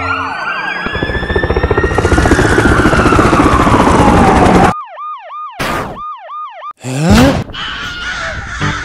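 Cartoon sound effects of police sirens: a wailing siren over dense helicopter rotor noise, then a fast yelping siren in two short bursts. A loud rising whoosh comes about seven seconds in.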